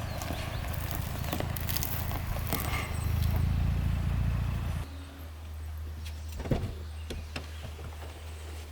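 Toyota Tacoma pickup truck running with a low rumble and road noise, which drops suddenly about five seconds in to a quieter steady idle hum, with a few light clicks and knocks after.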